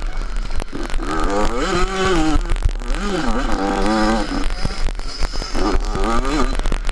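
Yamaha 85 motocross bike's two-stroke single-cylinder engine revving hard, its pitch rising and falling in three surges as the throttle is worked through turns, over crackling wind noise and knocks on the onboard microphone.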